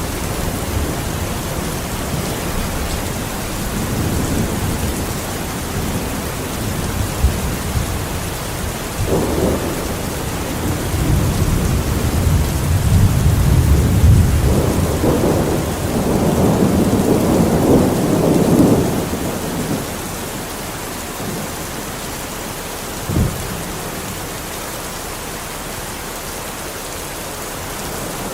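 Steady rain with rolling thunder that swells and fades through the middle. There is one short low thump about three-quarters of the way in.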